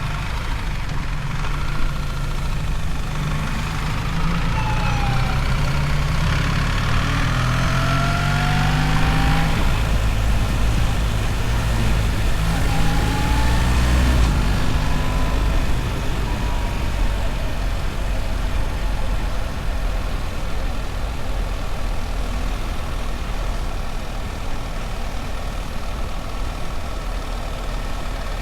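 BMW R1300 GS motorcycle's boxer-twin engine running under way, its pitch climbing in stretches as the bike accelerates through the first half, then settling into a steadier cruise, with wind and road noise throughout.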